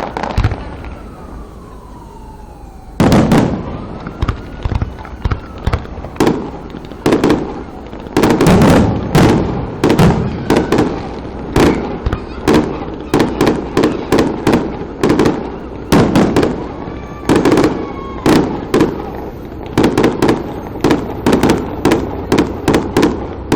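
Fireworks going off: a single heavy boom about three seconds in, then a rapid, nearly continuous run of sharp bangs and cracks through the rest. A faint falling tone is heard near the start.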